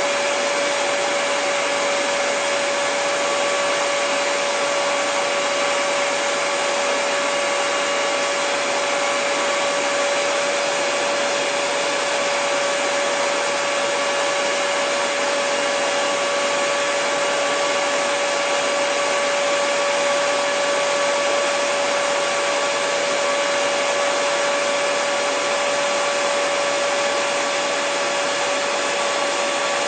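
Hair dryer running steadily: an even rush of blown air with a constant motor tone at one pitch and a fainter tone above it, unchanging throughout.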